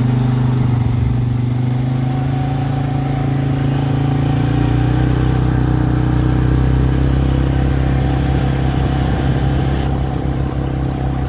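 A motor vehicle's engine running, its pitch rising gradually over the first few seconds and then holding steady.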